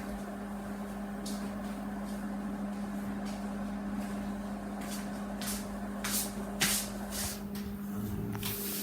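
Microwave oven running with a steady hum, cooking a bag of popcorn, with scattered short sharp clicks that come more often in the second half.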